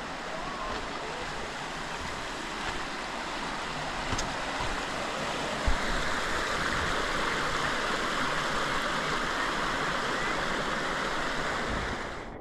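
Steady rush of flowing stream water, growing louder about halfway through, with a single low thump in the middle; it cuts off abruptly at the end.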